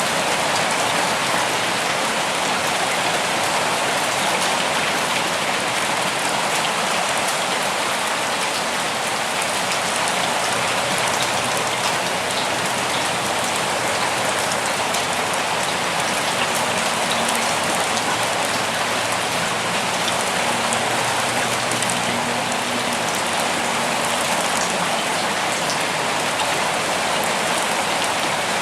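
Steady rainfall, an even hiss of rain with fine scattered drop ticks throughout.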